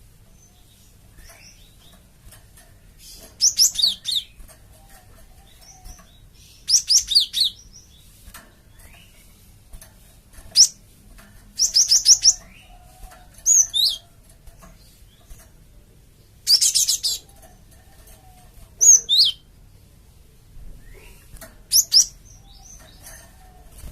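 Cinereous tit (gelatik batu) calling: short bursts of rapid, high chirps and quick down-sweeping notes, repeated about every two to three seconds, the kind of call used as a lure to draw other tits to answer.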